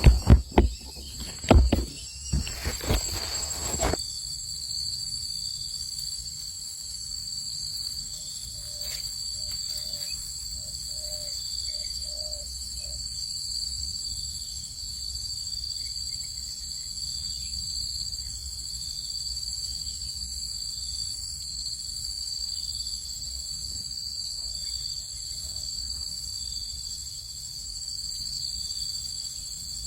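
Steady insect chorus, a continuous high trill at two pitches. A few sharp knocks and rustles in the first four seconds, and a faint run of short notes about ten seconds in.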